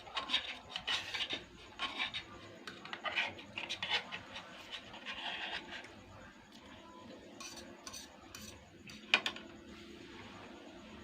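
Eating utensils scraping and clinking against a dish, busiest over the first six seconds, with one sharp clink a little after nine seconds.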